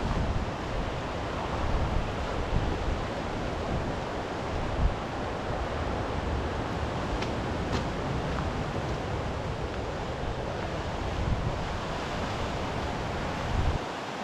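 Sea surf washing on the shore, with wind gusting on the microphone.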